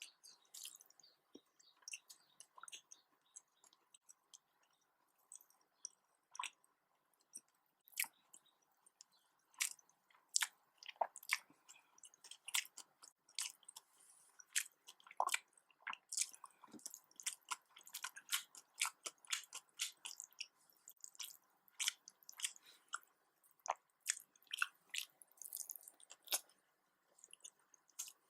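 Close-miked chewing and wet mouth clicks of a person eating nasi dagang, a rice-and-curry dish. The clicks are sparse at first and come thick and fast from about ten seconds in.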